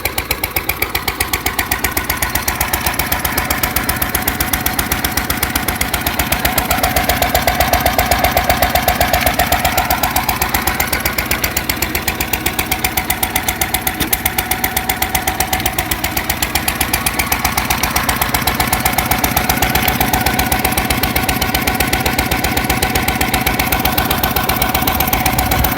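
International Harvester type LB 3 to 5 hp single-cylinder gas stationary engine running steadily with an even, rhythmic firing beat, belted to a Baker fan under light load that just opens the governor a bit. A steady whine joins about six seconds in.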